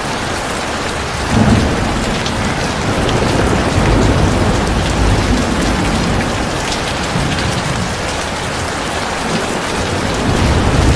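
Heavy rain falling steadily on a surface. A deep thunder rumble breaks in about a second in, rolls on for several seconds and fades, and another rumble builds near the end.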